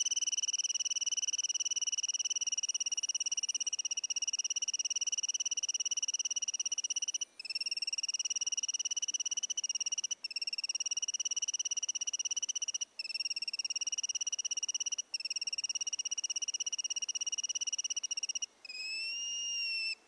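Recorded call of a white-faced nunbird: a high whistle held on one pitch in long phrases, broken by short gaps every two to three seconds. The last phrase wavers up and down.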